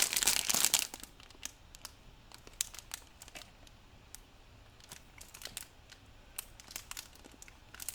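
Packaging crinkling and rustling as products are handled: a louder rustle in the first second, then light scattered crinkles and ticks.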